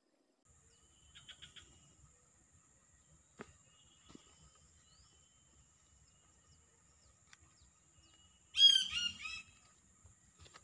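A bird gives a loud, harsh call of several quick notes near the end, over a steady high-pitched drone, with a short faint run of notes and a couple of soft clicks earlier.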